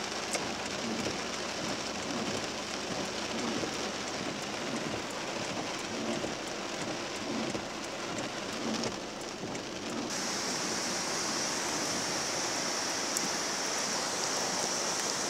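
Heavy rain falling on a car, heard from inside the car. About ten seconds in, it turns into a steadier, higher hiss.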